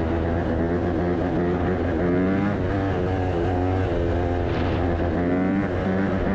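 Dirt bike engine revving hard, its pitch climbing and dropping back about once a second as the throttle is worked.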